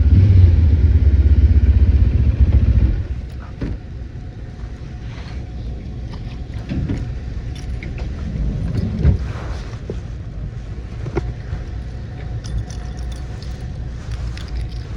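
Motorcycle engine running with a steady low rumble, which stops abruptly about three seconds in as the bike is brought to a halt and shut off. Light clicks and rattles follow.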